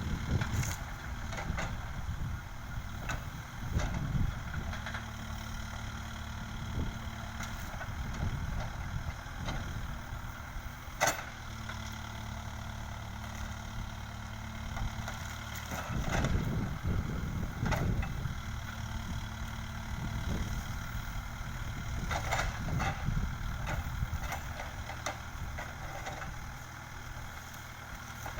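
Backhoe loader's engine running steadily, with a few sharp knocks and clanks over it, the loudest about eleven seconds in.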